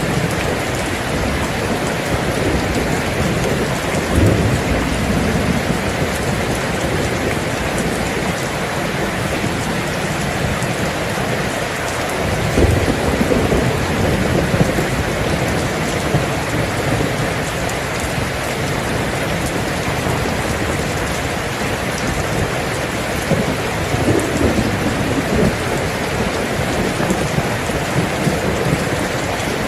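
Steady heavy rain falling, with low rumbles of thunder swelling up three times.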